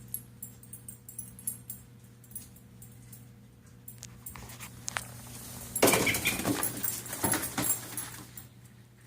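A dog making sounds, with faint high ticks early on and a loud, noisy burst of about two seconds near the middle.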